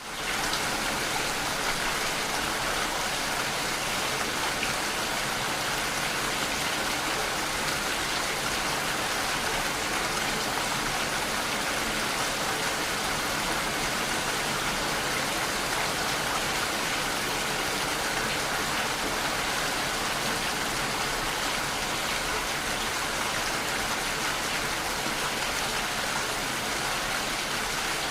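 Steady rainfall: an even, unbroken hiss of rain that comes in abruptly at the very start and holds level throughout.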